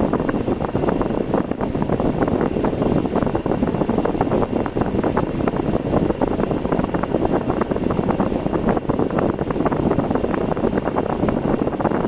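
Steady road and wind noise of a car driving, with wind buffeting the microphone in rapid crackles.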